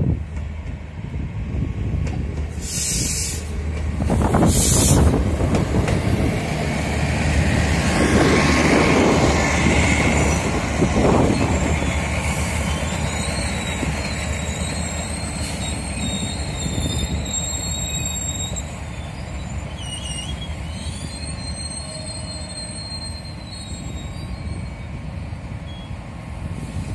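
MAN-built diesel railcar pulling into a station and braking to a stop: a steady low diesel engine hum under the rumble of the wheels on the rails, loudest as it passes about a third of the way in. Two short hisses come early on, and high-pitched squealing from the braking wheels runs through the second half as the train slows.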